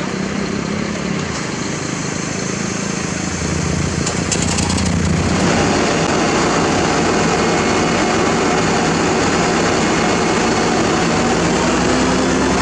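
Diesel engine of heavy construction machinery running steadily, growing louder about four seconds in and then holding at that level.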